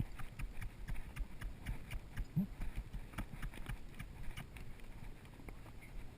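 Hooves of a ridden horse clip-clopping at a walk on rocky trail ground, irregular sharp knocks several times a second, with a brief low rising sound about two and a half seconds in.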